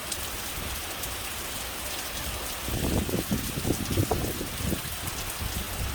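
Steady rain falling, joined about three seconds in by louder, irregular splashing of water.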